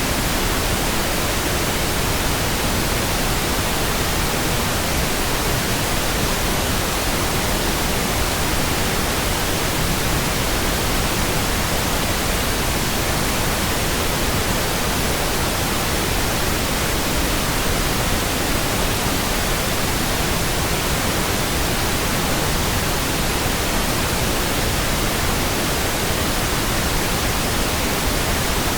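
Steady synthetic pink noise: an even hiss across all pitches, unchanging, with no other sound.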